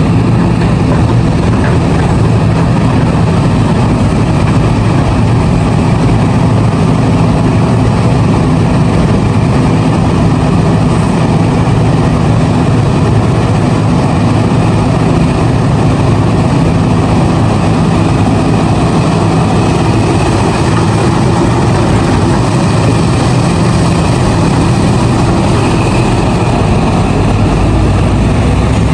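Heavy diesel engine of a large hydraulic mining excavator running steadily with a deep, even hum.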